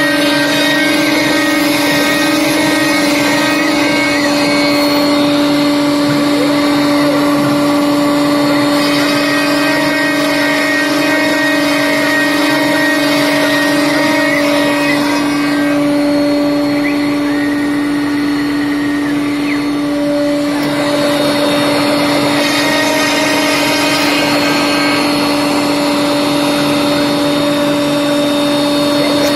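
CNC machine running: a steady whine with fainter higher tones that shift every few seconds.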